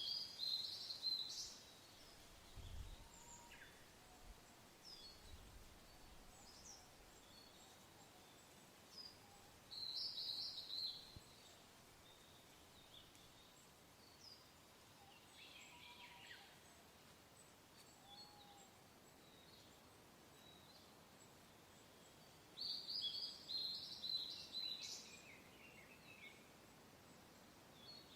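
Wild songbirds singing in short phrases: three louder bursts of song near the start, about a third of the way in, and near the end, with scattered single chirps between. Underneath is a faint, steady wash of soft wind.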